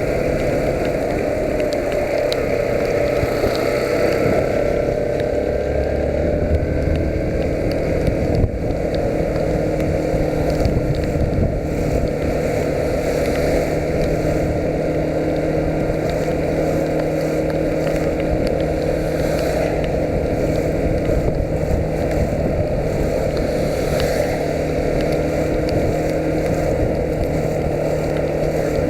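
Yamaha YBR125's single-cylinder four-stroke engine running under way, mixed with steady wind and road noise. The engine note shifts in pitch over the first several seconds, then holds steady, with a single knock about eight seconds in.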